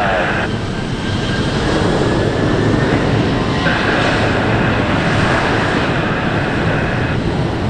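Jet airliner engines running, a loud steady noise with a high whine that fades out shortly after the start and comes back about halfway through. The aircraft is a Boeing 737-800 with CFM56 turbofans.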